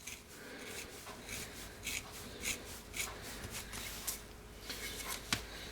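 Faint handling noises: hands rubbing and shuffling small tools or parts, with a few short scrapes and a light click near the end.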